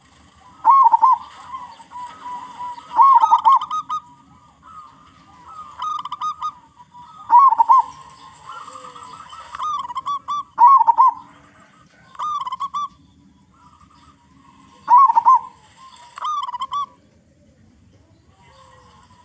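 Zebra dove (local perkutut) cooing: short rolling coo phrases repeated one every second or two, then stopping a couple of seconds before the end.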